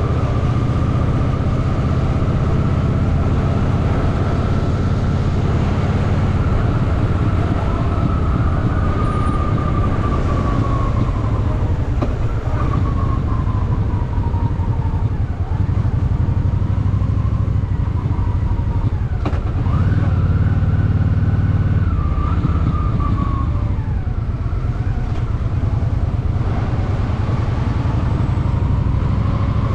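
Honda Shadow VT750's V-twin engine running under way in traffic, its pitch rising and falling slowly as the revs change, with wind and road noise.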